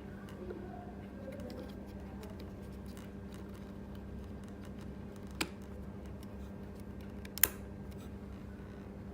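Steady electrical hum with faint scattered ticks, and two sharp clicks, the louder one near the end; no notes are played.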